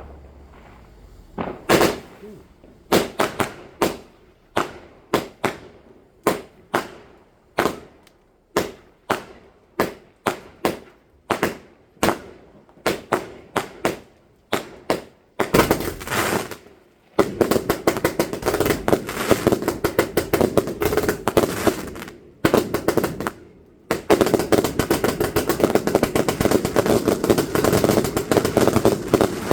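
Fireworks going off: a string of sharp bangs, about two a second, then dense rapid crackling from about halfway through, with a couple of short breaks.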